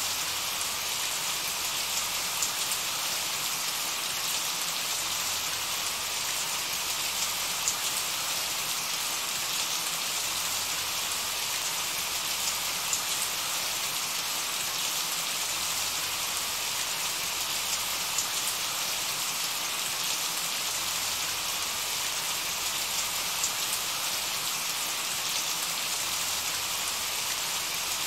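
Steady rain: an even hiss of falling rain, with occasional louder single drops.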